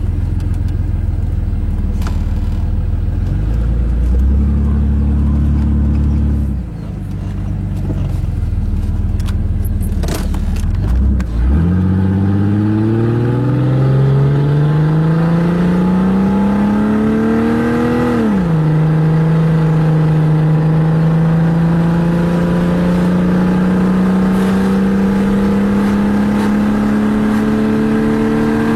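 Jeep 4.0 straight-six running with no muffler, heard while driving. A low, rough rumble for about eleven seconds, then the engine note climbs steadily under acceleration, drops suddenly at a gear change about eighteen seconds in, and holds a steady note that slowly rises as it cruises.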